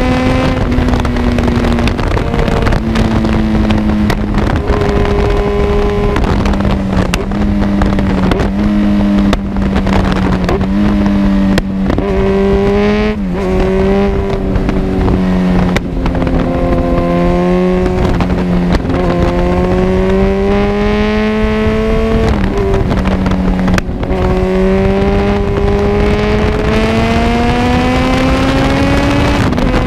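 Kawasaki Z1000 inline-four engine running through an Arrow full exhaust system while the bike is ridden. The engine note holds steady, then climbs slowly and drops back several times, as with throttle changes and upshifts.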